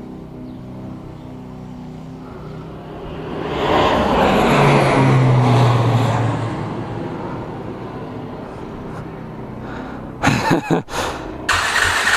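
A vehicle passes by, its engine and road noise swelling to a peak about four to six seconds in and then fading, over a steady idling engine hum. Near the end come several loud, sharp bursts from a motorcycle engine.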